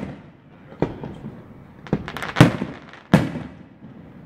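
Aerial fireworks shells bursting: four sharp bangs, the loudest about two and a half seconds in, with fainter crackling and echoing tails between them.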